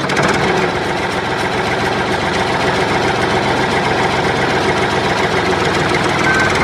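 Tractor engine idling steadily; a repeating beep starts at the very end.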